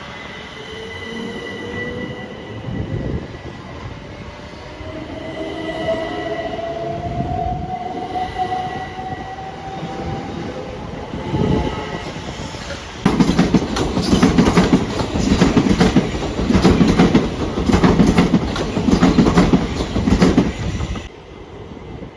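Train passing: a slowly rising whine and a steady high squeal for the first half. Then, about thirteen seconds in, a much louder noise that pulses about once a second sets in and cuts off suddenly near the end.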